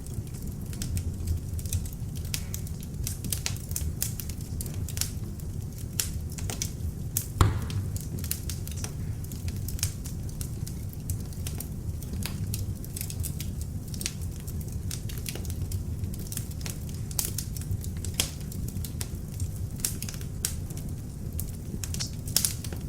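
Beech-wood log fire burning in an open fireplace: a steady low rumble of flames with frequent sharp crackles and pops, one louder pop about seven seconds in.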